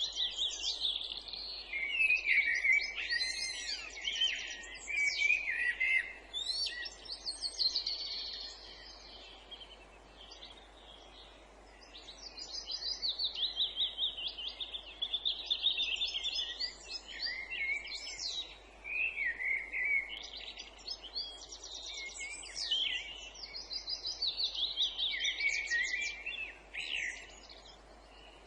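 Songbirds singing in a woodland chorus: overlapping phrases of fast trills and rapidly repeated high notes, with a lull of a few seconds about a third of the way through.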